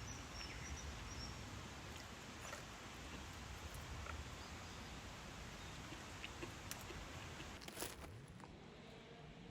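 A person chewing a mouthful of pasta, with a few faint clicks and a sharper one near the end, over a steady background hiss.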